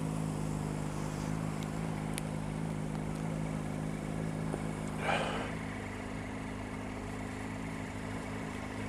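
Motorcycle engine idling steadily, with a short louder sound about halfway through.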